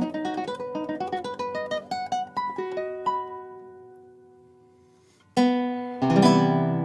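Background acoustic guitar music: a run of quickly plucked notes that rings out and fades away, then strummed chords coming in loudly near the end.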